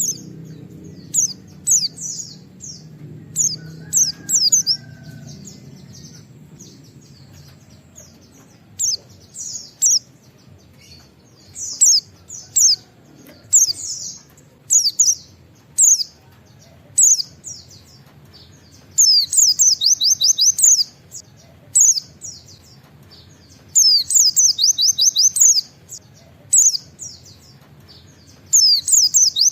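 Pleci (white-eye) singing in sharp, high chirps, single or paired with pauses between them, broken by rapid runs of 'wit wit' notes in the second half.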